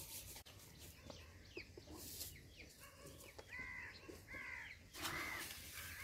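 Birds calling faintly: a series of short, arched calls, several in quick succession about three and a half to four and a half seconds in and another near the end. A brief rush of noise about five seconds in is the loudest moment.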